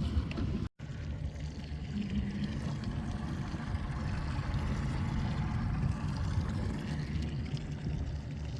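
Boat motor running steadily, a low rumble with water and wind noise over it. It drops out for an instant about a second in.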